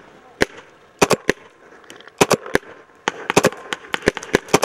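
Paintball markers firing: a single shot, then short strings of two or three pops, turning into a quicker run of shots in the last second and a half.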